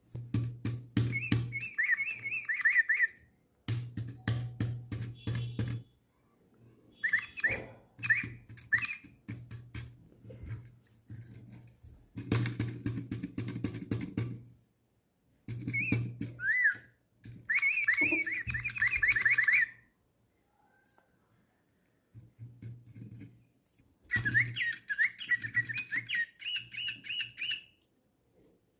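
DigiBirds toy lovebird singing through its small built-in speaker: electronic tweets and warbling chirps over a steady low buzz. It plays in several bursts of a few seconds each, with short pauses between.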